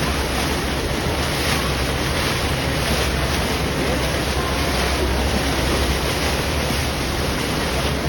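Steady wind buffeting the microphone over rushing water aboard a boat.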